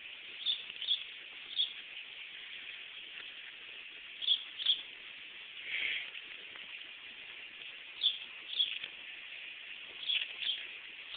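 Bird chirping in short high notes, mostly in quick pairs, every few seconds over a steady outdoor hiss.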